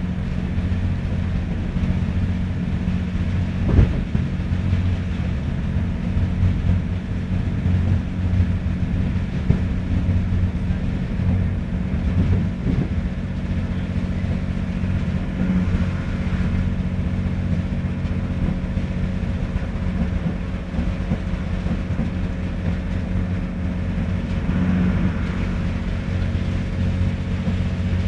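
Interior of a First Great Western diesel multiple-unit train running along the line: a steady low rumble with an engine hum throughout, and one sharp knock about four seconds in.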